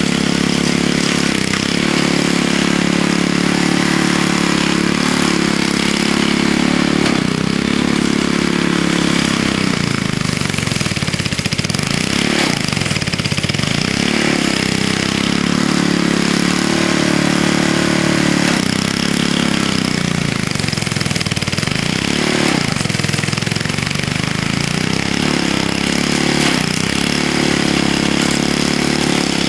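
Vintage Snow Bird snowblower's engine running steadily at working speed, run with the choke partly out. Its pitch sags and recovers several times, most deeply about a third of the way in and again about two-thirds through, as it bogs under load digging into packed snow and ice.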